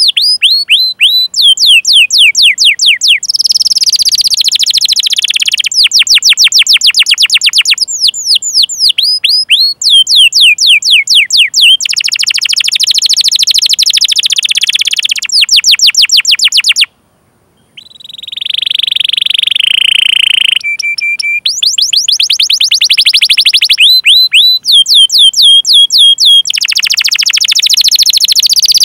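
Domestic canary singing a long song: fast runs of repeated falling "cuit cuit" chirps alternating with rolling trills. After a brief break about two-thirds through come a few seconds of held, whistle-like notes, then the chirping runs resume.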